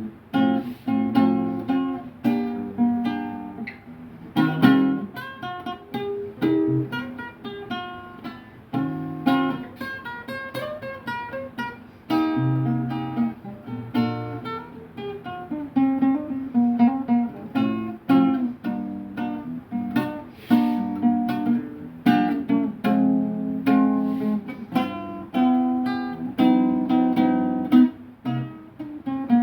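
Acoustic guitar played freely, plucked and strummed notes and chords with many sharp attacks that ring on between them.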